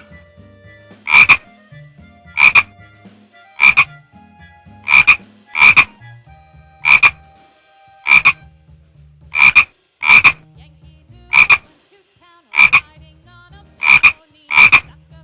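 An animal giving a short, sharp call over and over, about one a second, sometimes two in quick succession.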